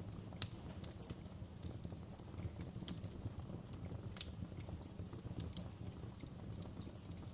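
Wood fire burning in a fireplace: a steady low rumble of flames with irregular sharp crackles and pops of burning wood, the loudest about half a second in and again about four seconds in.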